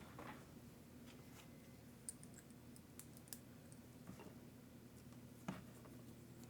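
Faint, scattered clicks and taps of small parts and hand tools being handled during an RC truck repair, the loudest tap near the end, over a faint steady hum.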